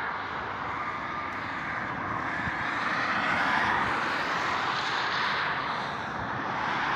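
Highway traffic going by: a steady rush of tyre and engine noise that swells and fades as vehicles pass, rising again near the end.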